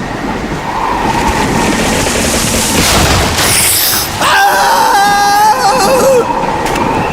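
Blizzard wind rushing steadily. About four seconds in, a loud wavering scream or howl rises over it for roughly two seconds.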